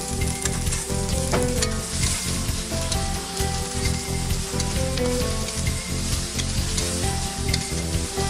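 Meat sizzling as it is stir-fried in a hot wok, with a metal ladle clicking and scraping against the wok many times.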